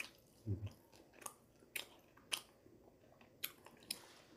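A person chewing a mouthful of food close to the microphone, with a string of short, sharp, wet mouth clicks and smacks. A brief low hum comes about half a second in.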